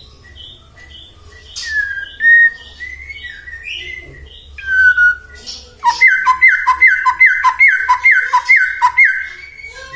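White-rumped shama (murai batu) singing varied clear whistled phrases. About six seconds in it breaks into a loud, fast run of about nine identical down-slurred whistles, between two and three a second, which stops just before the end.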